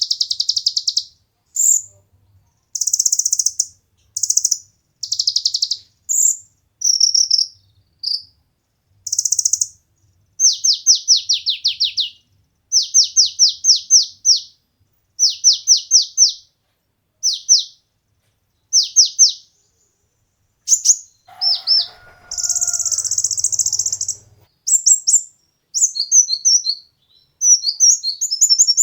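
Olive-backed sunbird (kolibri ninja) singing: short, high, buzzy trills broken by runs of rapid, falling, twittering notes, repeated in bursts with short gaps.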